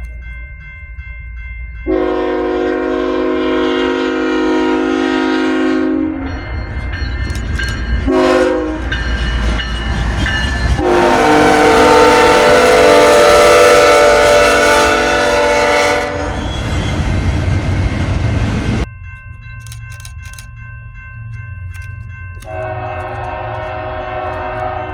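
Locomotive air horn sounding a chord in blasts: a long one, a short one, then a long, loud one, the crossing-signal pattern. A loud noisy rush follows as the train goes by over a low engine rumble, and the horn sounds again near the end.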